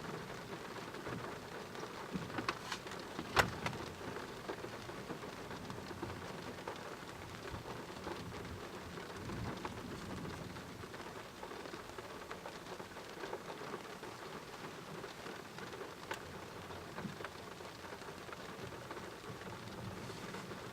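Heavy thunderstorm rain falling steadily, with sharp drops tapping close by about three seconds in and faint low thunder rumbling in the background.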